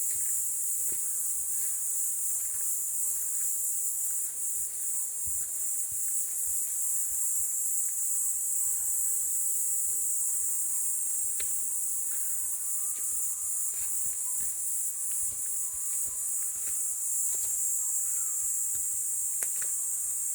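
Steady high-pitched chorus of insects in the forest, continuous throughout, with scattered faint clicks over it.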